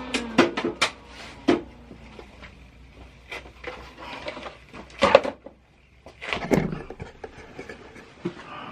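Scattered knocks, clanks and scrapes of tools and metal parts being handled at a workbench, with a quick run of knocks in the first second and a half and the loudest knocks about five and six and a half seconds in.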